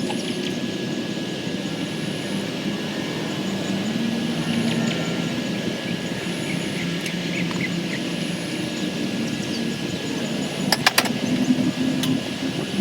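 Lawn mower engine running steadily, with a few sharp clicks near the end.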